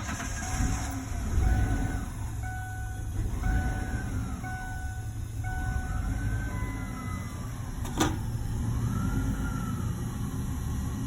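2002 Ford Explorer engine idling unevenly, a faint whine rising and falling every couple of seconds over a steady low rumble, with one sharp click about eight seconds in. The engine is dying out after a fuel pump replacement, which the owner puts down to the system not being airtight.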